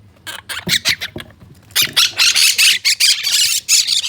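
Quaker parrots (monk parakeets) giving harsh, rapid squawks: a few short calls at first, then a loud, continuous run of calls about three or four a second from about two seconds in.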